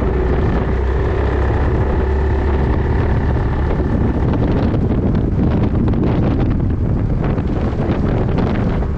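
Yamaha Majesty 400 scooter's single-cylinder engine running on the move, with wind buffeting the microphone, heavier and gustier from about halfway through.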